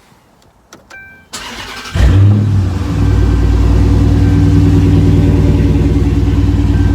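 Dodge Charger R/T Pursuit's 5.7 HEMI V8 started through its exhaust with the mufflers cut off. The starter cranks about a second in, the engine catches with a short rev flare about two seconds in, then settles into a steady, loud idle.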